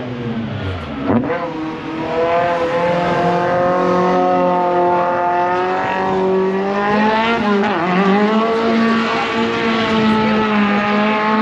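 A rally car's engine revving hard under acceleration: its pitch climbs in the first couple of seconds and holds high, dips sharply about eight seconds in as the driver lifts or shifts, then climbs and holds again.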